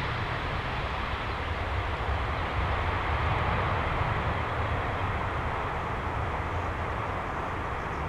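Boeing 747-400 freighter's jet engines after takeoff: a steady low rumble with a broad hiss that slowly fades as the aircraft climbs away.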